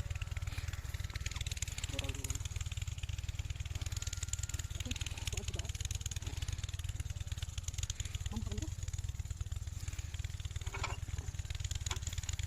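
Kirloskar 8 hp single-cylinder diesel pumpset engine running steadily with a fast, even, low thudding beat.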